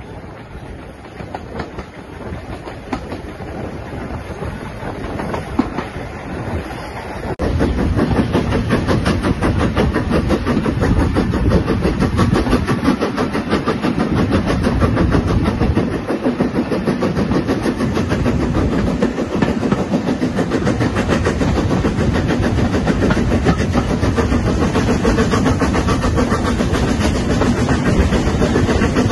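Heritage railway passenger train running along the track, with a rapid, steady clatter. The sound builds gradually, then about seven seconds in it abruptly gets much louder and stays loud.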